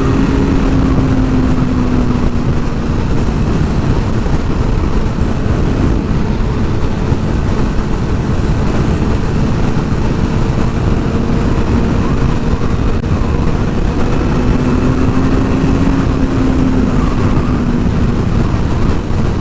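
Sport motorcycle ridden at a steady pace: a continuous engine drone whose pitch rises and falls gently, under heavy wind buffeting on the helmet or body-mounted microphone.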